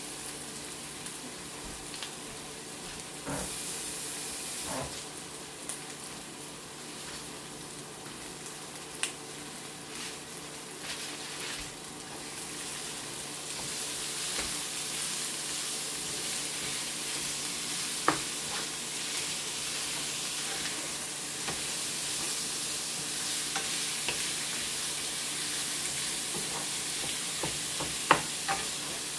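Ground beef and diced vegetables sizzling as they fry in a stainless steel pan, stirred and broken up with a wooden spatula. The sizzle grows louder about halfway through, and the spatula knocks sharply against the pan a couple of times.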